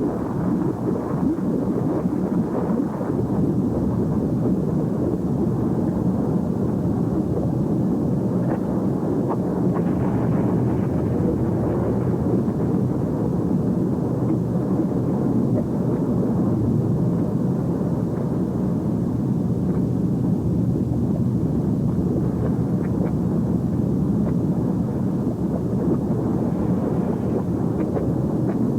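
Steady, deep rumbling of an erupting volcano, with faint crackles above the rumble.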